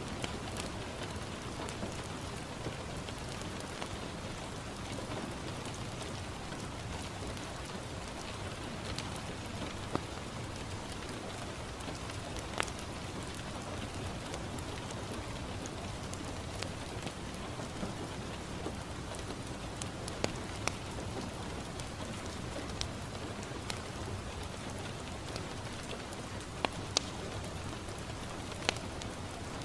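Steady rain falling on a window, with a few sharp crackles from a wood fire scattered through, several of them close together near the end.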